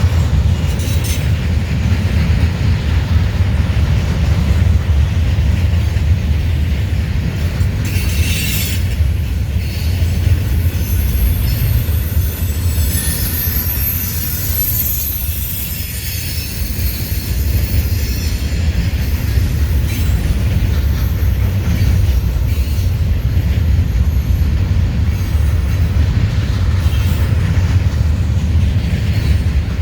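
Norfolk Southern freight train's cars rolling past close by with a steady loud rumble. A few sharp clacks come about eight seconds in, and a high wheel squeal follows around the middle.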